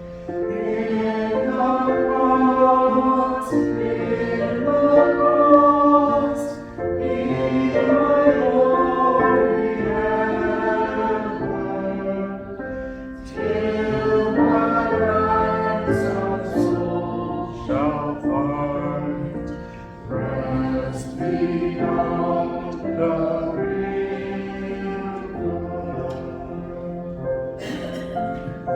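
Church choir singing a hymn in sustained phrases, with a steady low instrumental accompaniment.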